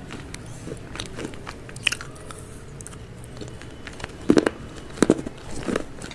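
Close-up chewing and crunching of crispy fried chicken, in irregular crisp crackles, with the loudest crunches about four and five seconds in.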